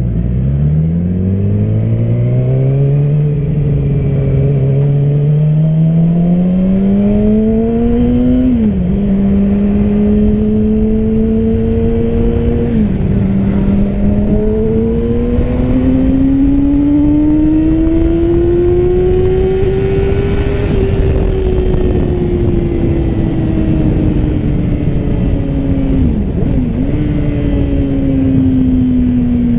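Motorcycle engine heard from the rider's seat, accelerating with its note climbing and then dropping sharply at upshifts about 9 and 13 seconds in. It then rises steadily to a peak around 20 seconds, eases off with a brief dip near 26 seconds, and keeps falling, over steady wind rush.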